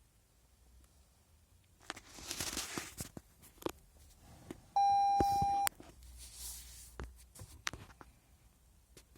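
2019 Toyota C-HR's warning chime sounds once, a steady beep of about a second, alongside rustling and a few sharp clicks. The chime comes with malfunction warnings on a car that won't start because its 12-volt battery is flat.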